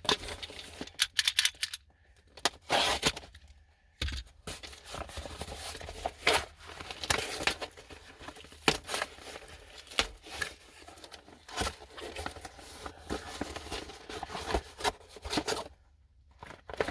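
Razor blade slicing the packing tape on a cardboard shipping box, with irregular tearing, scraping and crinkling as the tape and flaps are pulled open.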